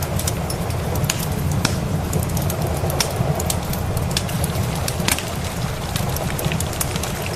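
Wood fire crackling with irregular sharp pops over a steady hiss of rain. A constant low rumble sits underneath.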